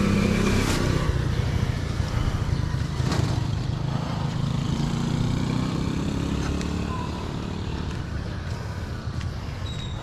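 A motor vehicle's engine running steadily, gradually getting quieter.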